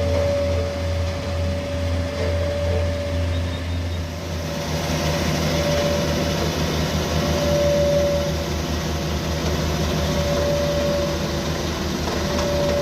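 A heavy vehicle engine running steadily: a low hum with a steady whine over it. The sound gets fuller and hissier about four seconds in.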